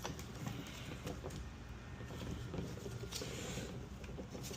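Faint clicks of metal sockets and a wrench being handled and tried on a fastener, over a low steady hum.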